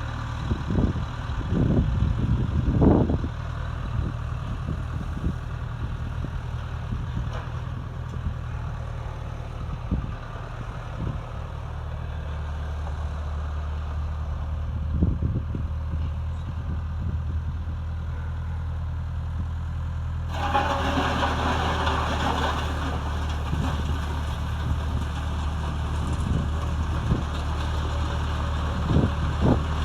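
Skid steer engine running steadily while it works a homemade scraper/grader attachment along a driveway. Clanks and knocks come in the first few seconds, again midway and near the end. About two-thirds of the way through, a rushing hiss of scraping joins the engine hum.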